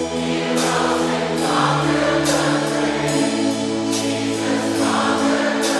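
Many voices singing a worship song together over a band, in long held chords that shift about three seconds in, with cymbal crashes now and then.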